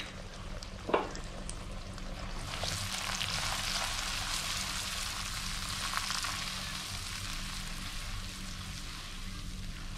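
Blended chilli paste sizzling as it fries in hot oil in a non-stick pan while it is stirred with a silicone spatula. There is a single sharp knock about a second in, and the sizzling grows louder from about two and a half seconds.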